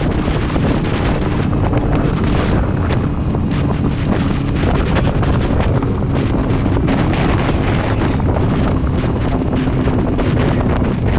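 Heavy wind buffeting the microphone, with a steady engine drone underneath whose pitch sinks slowly.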